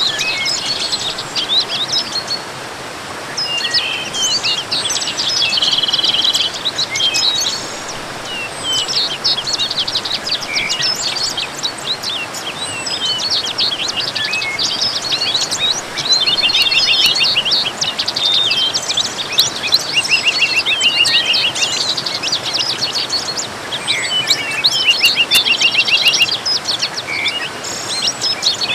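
A dense chorus of small songbirds chirping and singing, with many quick rapid trills, over a steady rush of waterfall noise.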